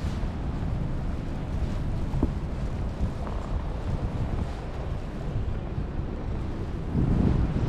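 Wind buffeting the microphone in a snowstorm, an uneven low rumble that gusts louder near the end.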